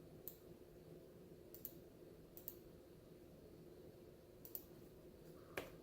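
Computer mouse clicking: about five short, sharp clicks spaced irregularly, the loudest near the end, over a faint steady hum.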